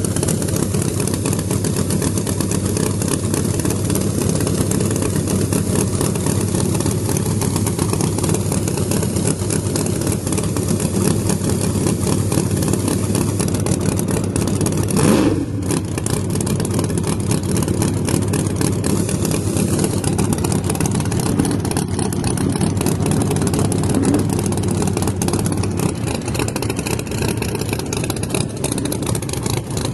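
Race car engines running steadily at the drag strip, with one brief rev about halfway through.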